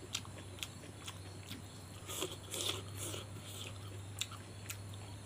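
Close mouth sounds of a person chewing food, with scattered crunches and small clicks, over a steady low hum.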